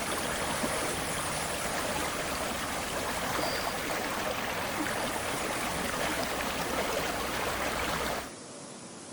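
Flowing water of the Aare river, a steady even rush of running water. It cuts off abruptly about eight seconds in, leaving a much quieter outdoor background.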